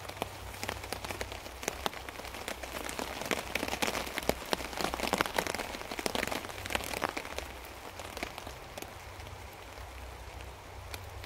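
Rain pattering on a tarp overhead: a dense, irregular spatter of drops that grows heavier for a few seconds in the middle.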